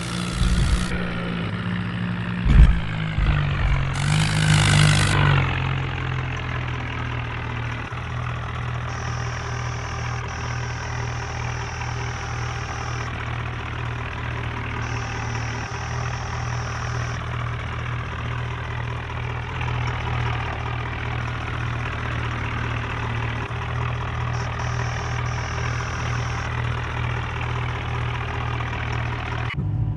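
HMT tractor's diesel engine idling steadily. A sharp knock comes about two and a half seconds in, and the noise swells louder for a moment around four to five seconds in.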